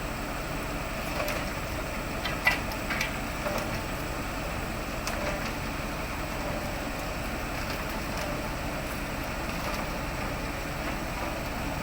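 Heavy diesel machinery running steadily, with a few short clanks about two and a half seconds in and another around five seconds.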